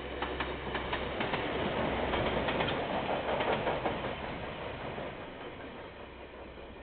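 KiwiRail train passing, its wheels clacking over rail joints with a low rumble under them. It is loudest a couple of seconds in, then fades as the last wagons go by.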